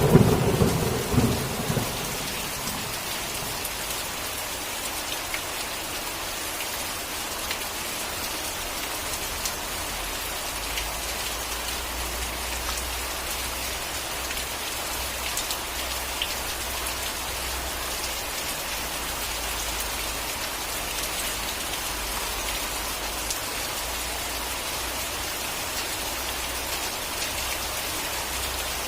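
Steady rain falling, an even hiss dotted with individual drop ticks. It opens with a clap of thunder that rolls away over about two seconds.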